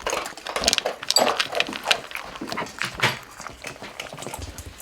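Cats eating from food bowls: irregular chewing and crunching with quick clicks and clinks.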